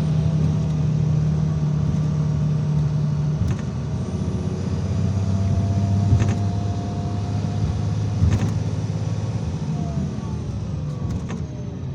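IVECO Crossway 13M PRO city bus under way, heard on board: a steady low engine drone whose pitch shifts about three and a half seconds in. A faint whine rises, then falls as the bus slows near the end. A few knocks and rattles come through the body.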